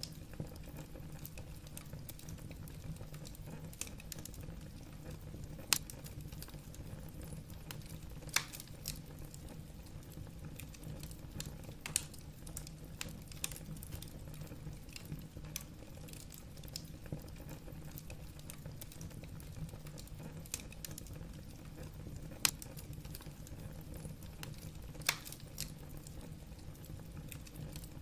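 Wood fire burning in a fireplace: irregular crackling of logs with scattered sharp pops, a few louder snaps standing out, over a steady low rumble of the flames.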